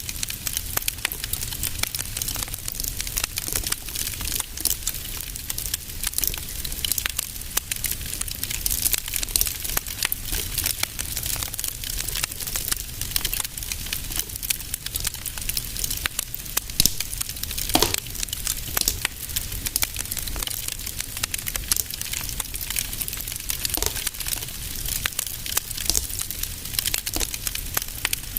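Fire in a fireplace crackling and popping in dense, irregular clicks, over a low steady rumble, with a louder pop about two-thirds of the way through.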